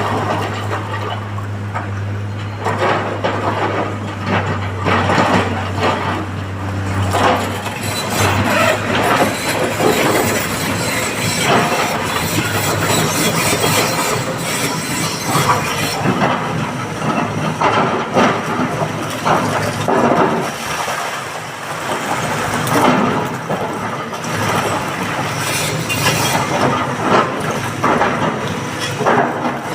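An excavator working: a steady diesel engine hum for the first several seconds, then continuous irregular clanking and rattling of metal and rock.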